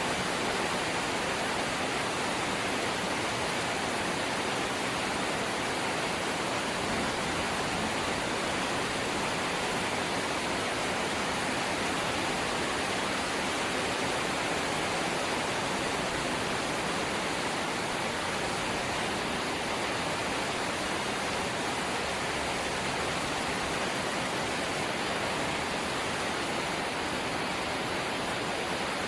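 Steady light rain falling, an even hiss with no separate drops, thunder or gusts standing out.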